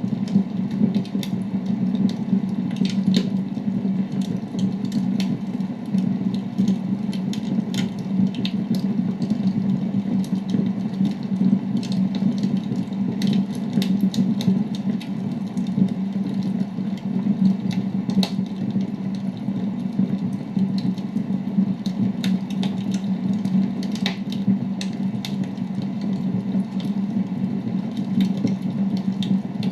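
Wood fire crackling in a fireplace: frequent sharp pops and snaps at irregular intervals over a steady low rumble.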